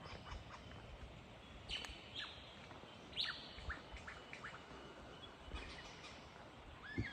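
Superb lyrebird singing a run of mimicked calls: a string of short, sharp notes sweeping down in pitch, the loudest a little under two seconds and about three seconds in, then looping whistled notes near the end.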